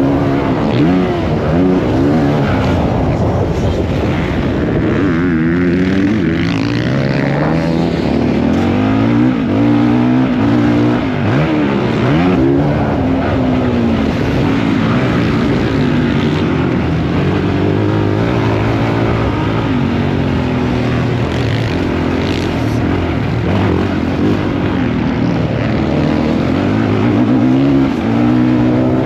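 Motocross bike engine at race pace, its pitch climbing and dropping again every second or two as the throttle is opened and closed through gear changes.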